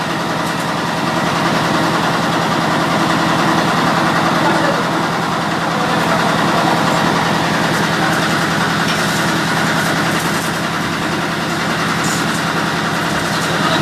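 A heavy engine idling steadily and loudly, with an even, unchanging running note.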